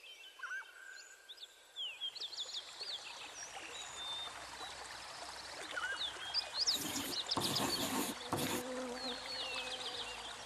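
Small birds chirping in quick, high twittering calls over a steady outdoor background hiss, with three short bursts of rushing noise between about seven and eight and a half seconds in.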